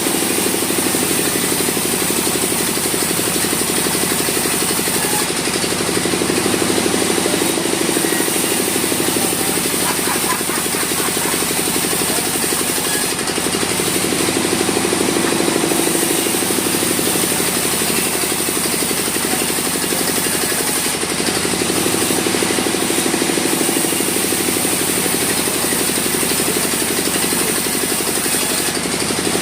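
Sawmill machinery running steadily, with a constant high whine and a slow rise and fall every several seconds.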